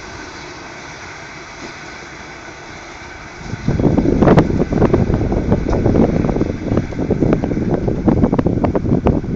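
A train fading away as a faint steady rumble with a thin hum from the rails. About three and a half seconds in, loud, gusty wind starts buffeting the microphone.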